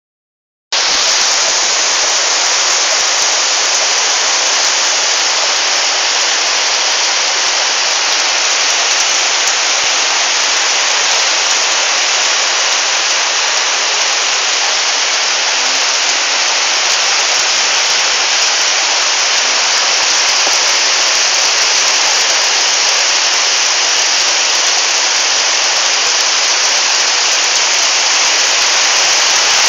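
Steady hiss of a windy rainstorm, with heavy rain and strong wind, starting suddenly just under a second in.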